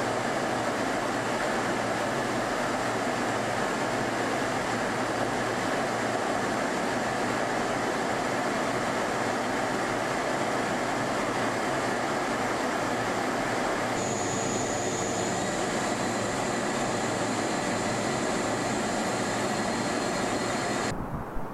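A steady, unchanging mechanical roar with a thin high whine running through it, which cuts off abruptly near the end.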